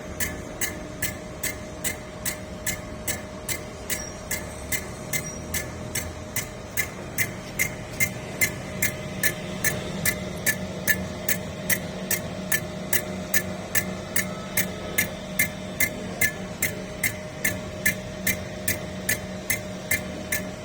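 Cylinder head refacing machine running: a steady motor hum with a sharp, even tick a little more than twice a second.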